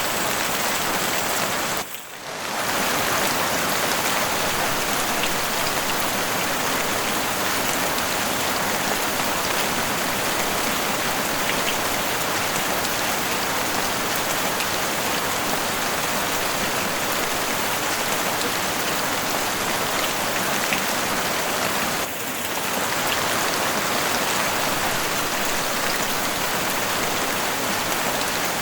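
Heavy rain falling on a house roof, a dense, steady patter. The sound dips briefly about two seconds in, and again about twenty seconds later.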